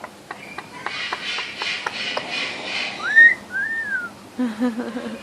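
A two-note wolf whistle about three seconds in: one note rises, then a second arches and falls. It is preceded by a few light clicks, and followed near the end by a short low pulsing sound.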